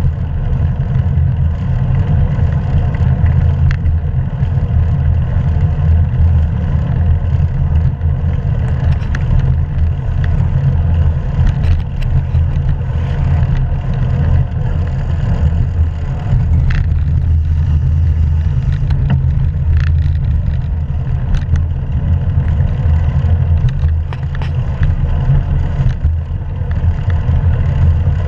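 Steady low wind-and-road rumble on a GoPro action camera's microphone while riding a hybrid bike, with a few short clicks scattered through.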